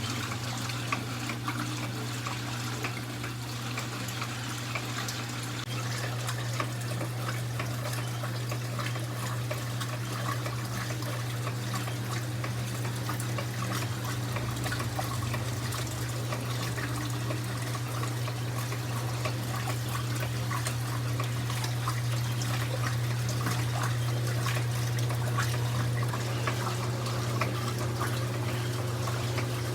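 1982 Brastemp Luxo washing machine with water running and splashing in its tub, over a steady low hum.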